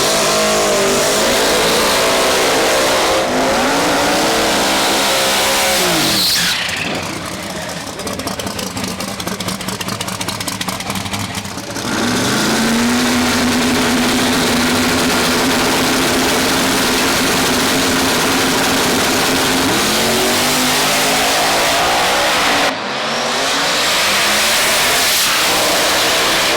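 Turbocharged drag-race car engines run hard at full throttle. The pitch climbs through the gears and at one point holds a long steady note. There is a lower, rattly stretch in the middle, and the sound cuts off suddenly near the end before another rising run.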